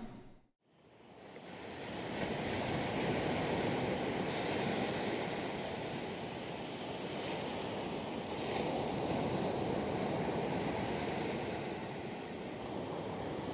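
Ocean surf: a steady rush of waves fading in about a second in, swelling and easing slowly.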